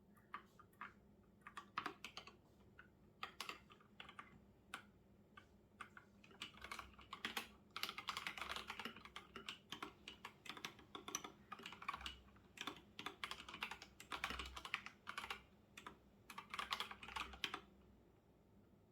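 Typing on a computer keyboard: runs of quick key clicks with short pauses between them, stopping about a second before the end.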